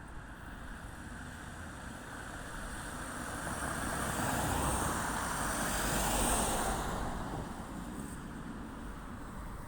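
A road vehicle passing by, its noise swelling to a peak and fading away over a few seconds, over a steady background rumble.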